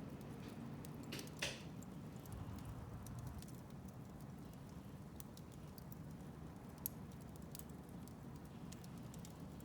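Wood fire burning in a fireplace: a low steady rumble with scattered crackles, a louder pop about a second and a half in and a sharp snap about seven seconds in.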